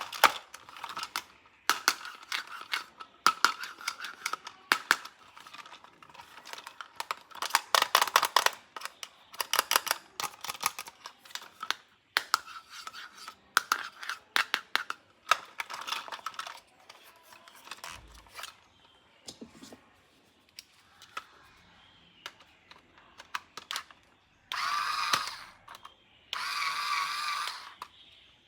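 Plastic toy parts and packaging being handled, with rapid clicking and rattling. Near the end come two electronic sound effects of about a second and a half each from a battery-powered toy.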